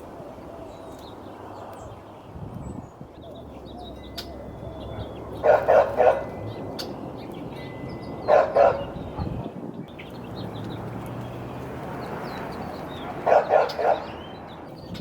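A dog barking in three short volleys of two to four barks each, with faint bird chirps in the background.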